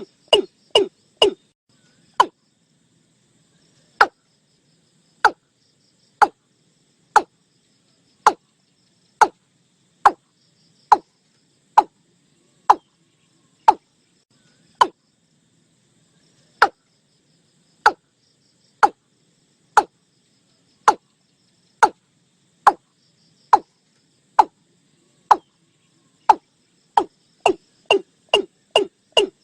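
Watercock calling: a quick run of short, sharp notes at the start, then single notes about a second apart, speeding up into a quick run again near the end.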